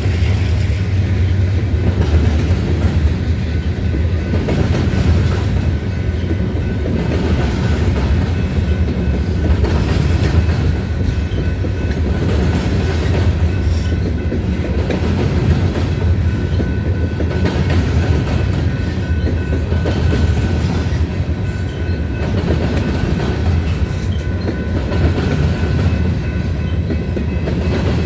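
Freight cars of a grain train rolling steadily past: a continuous heavy rumble with wheels clicking over rail joints.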